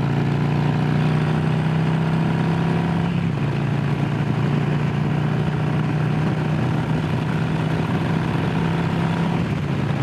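Harley-Davidson Low Rider S's Milwaukee-Eight V-twin running steadily while riding, its pitch dropping slightly about three seconds in and then holding.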